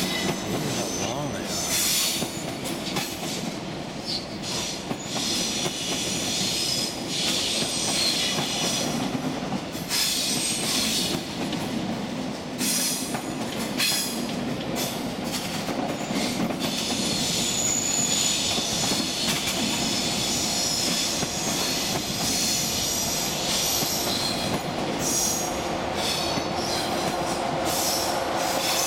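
Deutsche Bahn ICE passenger train rolling past over the yard's switches: a steady rumble of wheels with repeated clicks over rail joints and points, and a high wheel squeal that comes and goes.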